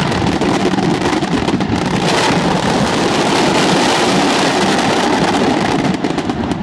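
Fireworks finale barrage: shells bursting so fast that they merge into one continuous, loud din with crackling on top, easing slightly near the end.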